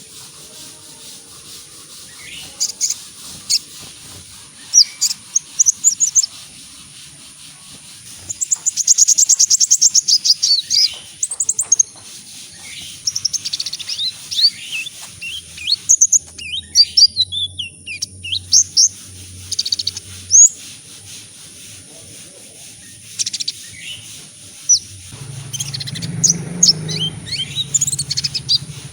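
Kolibri ninja (a sunbird) singing: rapid, high, thin chirps and trills, some of them fast run-together twitters. A low hum comes in under the song near the end.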